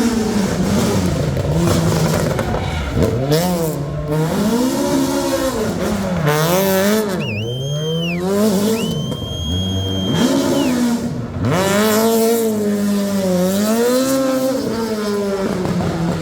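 Rally car engine revving hard and easing off over and over through a slalom, its pitch rising and falling every second or two. Around the middle a high tyre squeal cuts in twice.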